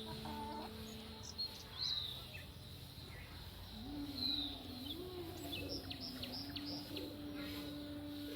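Small birds chirping and giving short whistled calls, with a quick run of chirps a little past halfway. A faint, low, drawn-out tone wavers in about halfway through and then holds steady.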